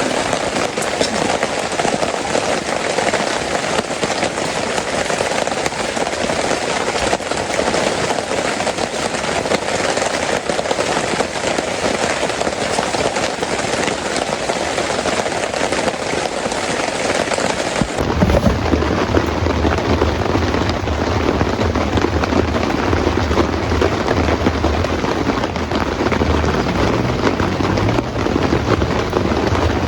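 Heavy rain falling steadily, an even hiss of drops. About 18 seconds in the sound changes abruptly and a low, uneven rumble joins the rain.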